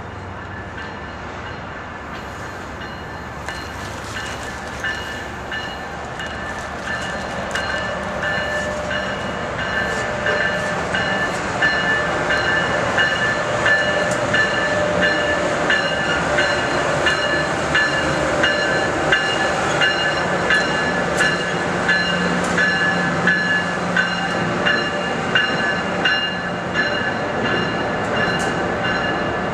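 A train running on rails, growing louder over the first ten seconds and then holding steady, with a regular clicking of wheels over the track and a steady high whine above it.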